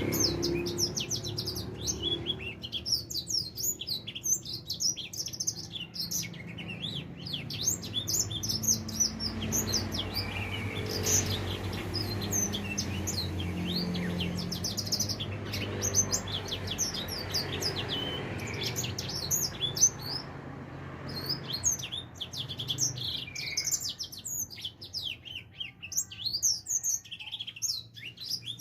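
Young grey singing finch (edel sanger), about four months old, singing a long, rapid twittering song of quick high notes. The song thins out near the end.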